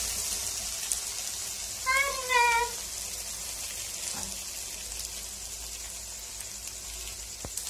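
Idli pieces and masala sizzling in an iron kadai, a steady high hiss. About two seconds in comes a brief high-pitched cry in two falling parts.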